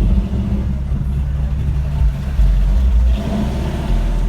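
Cars rolling past, with a deep low rumble that swells and drops in steps and engine noise.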